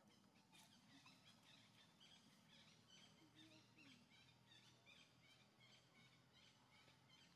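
Faint, rapid high chirping of small birds, several short chirps a second.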